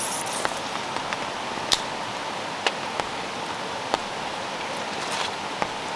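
Heavy rain falling: a steady hiss with scattered sharp ticks of single drops striking, about one a second.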